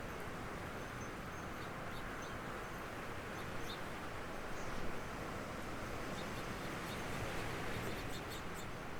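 Steady rushing noise of a windstorm with rain. Faint, high bird chirps are scattered through it, with a quick run of chirps near the end.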